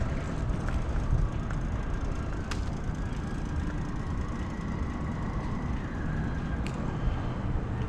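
Steady low rumble of city street noise, with a faint steady whine in the middle for about three seconds and a couple of sharp clicks.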